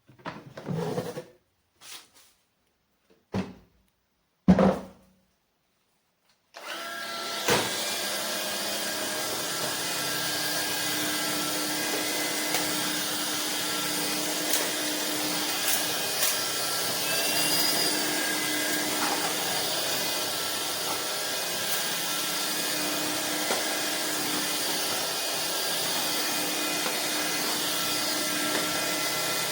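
A few short knocks from the vacuum being handled. Then, about six seconds in, a Vistefly V15s Max cordless stick vacuum cleaner switches on and runs steadily, a rushing hiss of air with a few steady tones over it.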